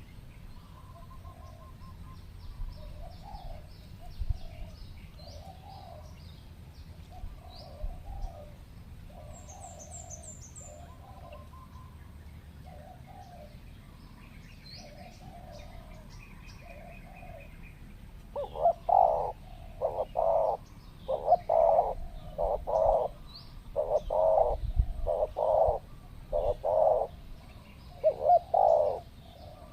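Spotted doves cooing: faint, repeated coos at first, then a loud, close run of rapid coos from about two-thirds of the way in. Small birds chirp faintly and high-pitched over them.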